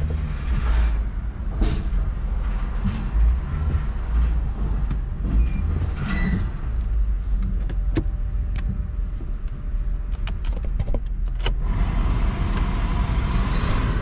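A car running, heard from inside its cabin as a steady low rumble, with a quick run of clicks and knocks about two-thirds of the way in and a steady mid-pitched hum coming in near the end.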